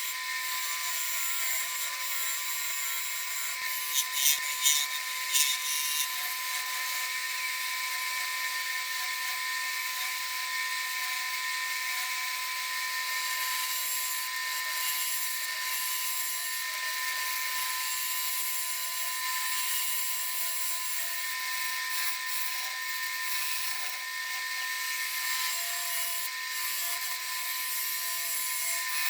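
Wood lathe spinning a red oak bowl blank at about 1,000 rpm while a bowl gouge rough-turns it: steady machine whine under continuous cutting noise, with a few louder bursts of cutting about four to five seconds in.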